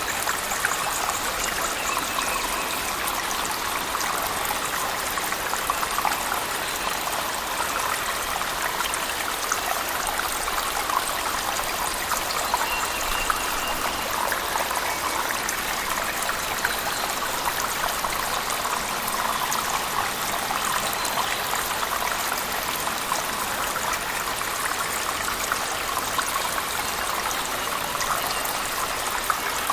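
Steady splashing of a waterfall falling inside a cave, mixed with heavy rain.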